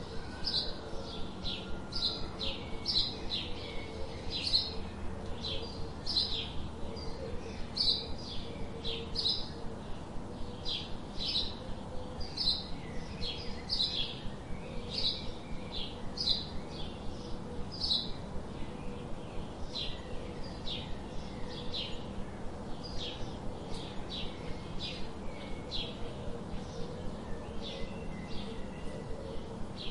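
A small bird chirping steadily: short, high chirps repeated about twice a second, over a faint steady outdoor background.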